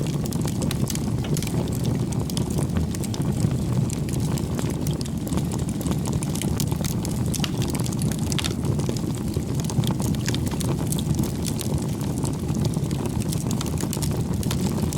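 Bonfire burning: a steady low rush of flame with frequent small crackles and pops of burning wood.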